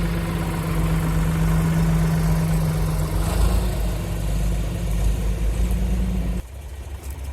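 Doosan DX35z mini excavator's diesel engine running at a steady speed. The sound drops off abruptly about six and a half seconds in.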